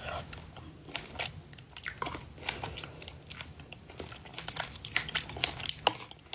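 Close-miked chewing and crunching of a mouthful of cereal yogurt, with scattered short crunches.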